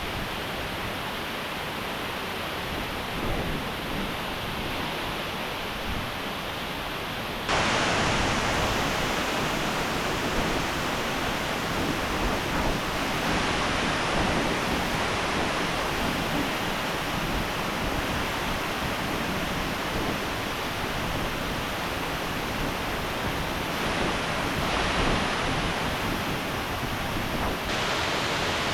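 Rushing water of a waterfall, a steady roar of noise that jumps abruptly louder and brighter about seven seconds in.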